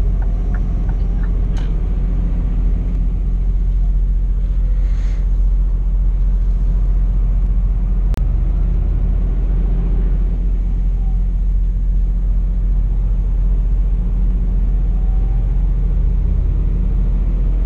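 Scania P420 truck's inline six-cylinder diesel engine running steadily, heard from inside the cab as a low rumble. A single sharp click sounds about eight seconds in.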